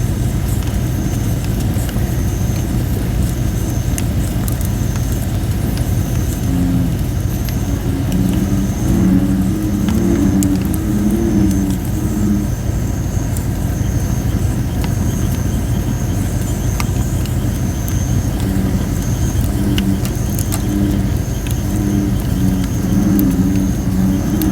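Campfire of thin, under-dried red robin (Photinia) wood crackling with scattered sharp pops, over a steady low rumble. American bullfrogs call in low, repeated bursts about a third of the way in and again near the end, and a high-pitched note pulses about once a second.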